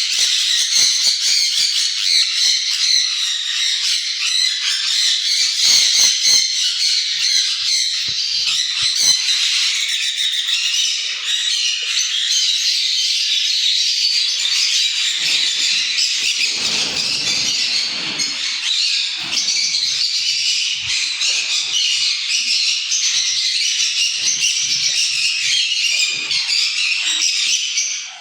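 A flock of small parrots, lovebirds and sun conures, chattering and squawking nonstop in an aviary as a dense, shrill wall of overlapping calls.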